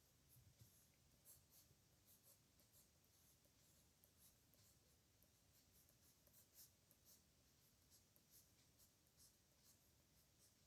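Faint scratching of a pen on paper during handwriting: short, irregular strokes a few times a second.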